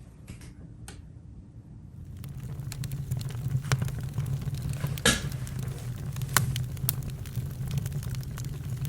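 Campfire crackling: a low steady rush of burning with scattered sharp pops, growing louder about two seconds in, with the loudest pop about five seconds in.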